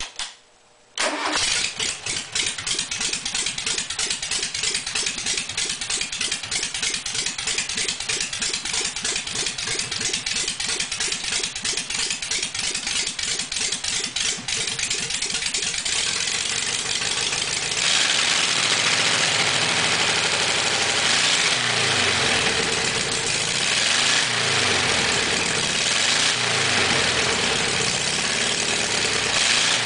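Fuel-injected VW 1600 flat-four engine cranked on the starter with a steady rhythmic churn for about fourteen seconds, then catching and running, its speed rising and falling unevenly.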